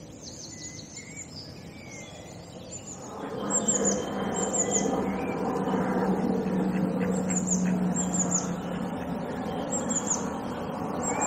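Birds singing in short, high, repeated falling chirps. About three seconds in, a louder rushing noise with a steady low hum comes up beneath the birdsong.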